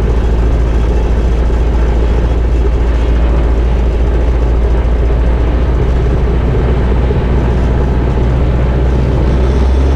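Cessna 172RG's 180 hp four-cylinder piston engine running steadily, heard from inside the aircraft. Near the end its note changes as power is brought up for the takeoff roll.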